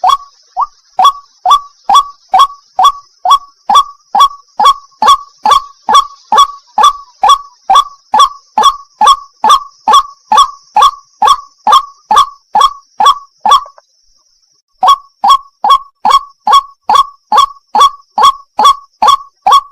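White-breasted waterhen's 'wak-wak' call repeated rapidly, about two short falling calls a second, with one break of about a second around two-thirds of the way through. A faint steady high hiss runs behind the calls.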